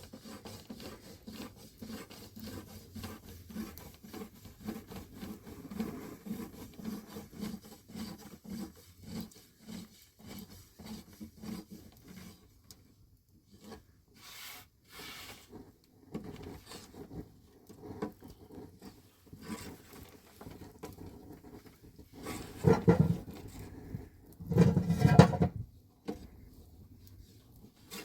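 Rhythmic rubbing and patting, about two strokes a second, easing off after about twelve seconds, followed by two louder scraping or rubbing bursts near the end.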